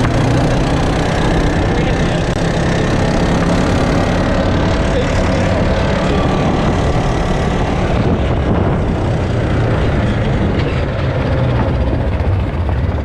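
A small vehicle engine running steadily, with no big revs, under a rough layer of noise.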